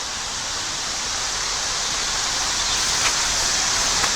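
Steady rushing of creek water, growing gradually louder, with a couple of faint snaps.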